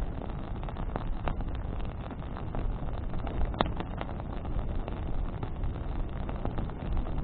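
Campfire of burning branches crackling, with scattered pops and one sharper pop about three and a half seconds in, over a steady low rumble.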